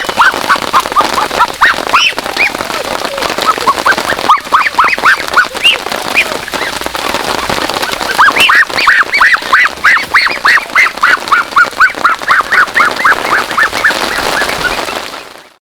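Geese honking, many short calls in quick succession and overlapping, as from several birds; the sound fades out near the end.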